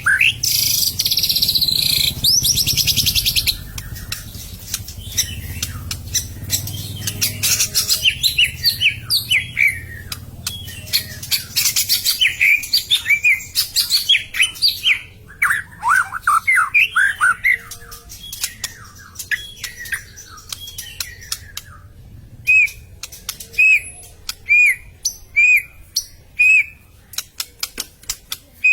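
White-rumped shama singing in an agitated, fighting mood: it opens with a loud harsh rasp, then a fast, varied song of sweeping whistles mixed with rapid clicking notes. Near the end comes a run of short repeated whistles, about one and a half a second.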